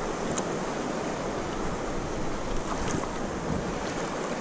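Whitewater of river rapids rushing steadily around a kayak.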